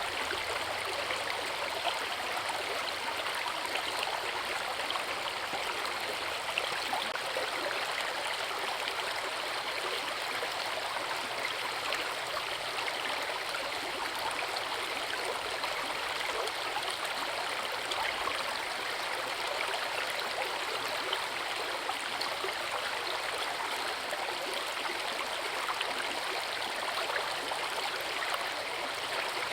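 Rushing water of a forest river, a steady, even splashing flow.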